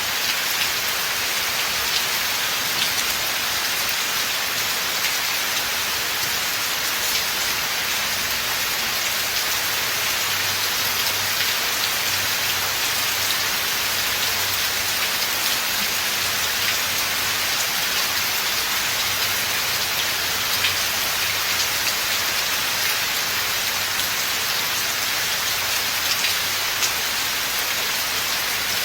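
Steady rain falling in a forest: an even hiss with many small drop ticks scattered through it.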